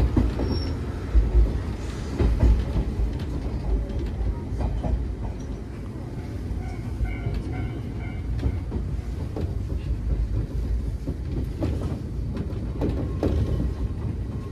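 Cabin running sound of a Nagano Electric Railway 3500 series (ex-Teito Rapid Transit Authority 3000 series) electric train under way: a steady low rumble with repeated wheel clacks over rail joints, and a faint high ringing for a couple of seconds in the middle.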